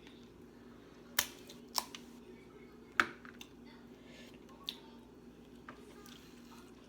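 Snow crab shells cracking and snapping as legs are broken open by hand: a handful of sharp cracks, the loudest about a second in and at three seconds. A steady low hum runs underneath.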